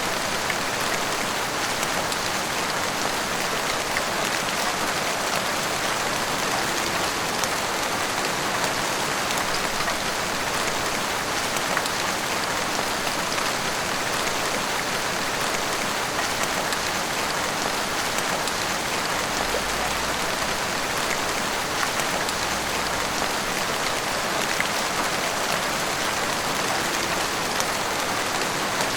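Heavy rain pouring steadily, an even hiss of rain with scattered droplet ticks.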